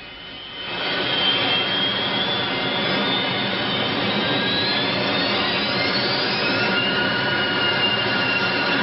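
Airliner jet engines running at high power, a steady loud rush with a high whine that rises in pitch midway and another tone that slides slowly down near the end. The power is held to keep the nose up during a landing with the front landing gear failed to come down.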